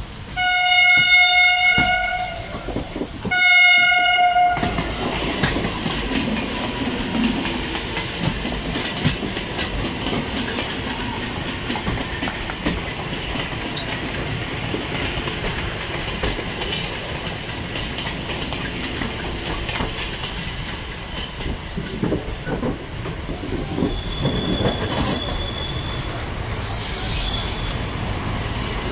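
Train horn sounding two blasts of about a second and a half each, followed by the steady rumble and wheel clatter of an ICF passenger coach rolling into the station. Near the end come a short high-pitched wheel or brake squeal and a burst of hiss.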